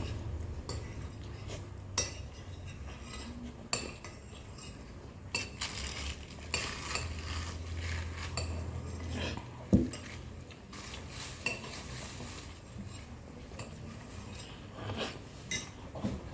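Cutlery clinking and scraping against a plate of egg and rice as it is eaten, in irregular light clicks. There is a sharper knock about ten seconds in, over a low steady hum.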